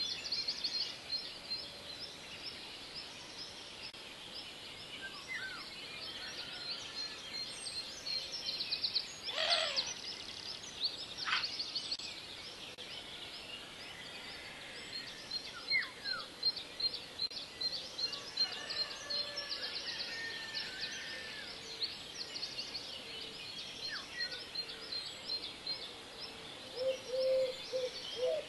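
Birds chirping: many quick, high notes repeating throughout, with a few sharp downward-gliding calls, one of them long and falling steeply about a third of the way in. Near the end a lower, rapidly pulsing call joins in.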